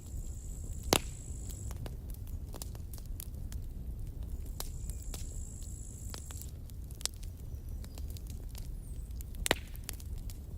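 Campfire burning with a steady low rumble and constant small crackles, with two loud sharp pops from the burning wood, about a second in and near the end. A thin high hiss comes and goes.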